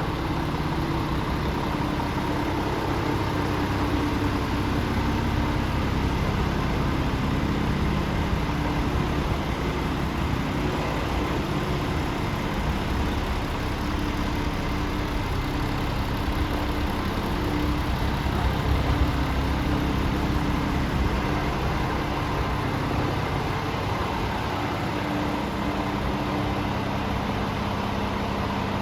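Scania R450 Euro 6 truck's 13-litre six-cylinder diesel engine idling steadily.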